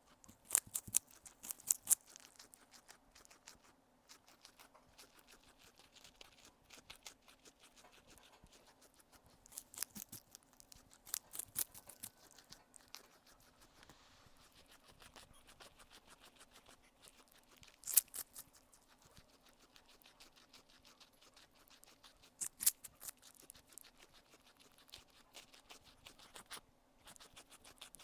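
Guinea pig chewing food right at a small microphone: rapid, crisp crunching clicks of its teeth, coming in several louder bursts with quieter nibbling between.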